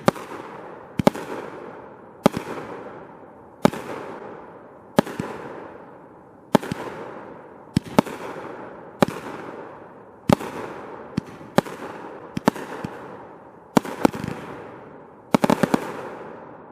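500 gram fireworks repeater cake firing shot after shot, a sharp bang about every second or so, each dying away over about a second, with a quick volley of several bangs near the end.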